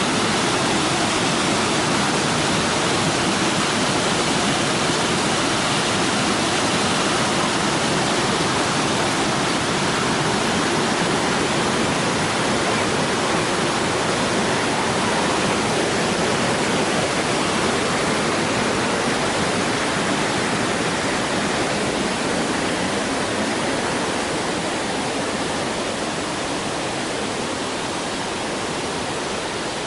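Waterfall pouring steadily into its pool, a constant rush of falling water that eases slightly near the end.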